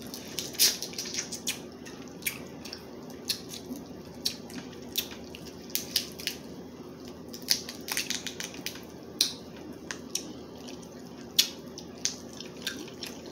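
Crab legs being cracked and eaten close to the microphone: an irregular run of sharp clicks and cracks of shell and wet chewing, over a low steady hum.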